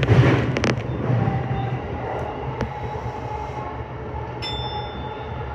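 Electric commuter train running between stations, heard from inside the car: a steady low rumble of wheels on the rails with a faint steady whine. A loud rushing burst comes in the first second.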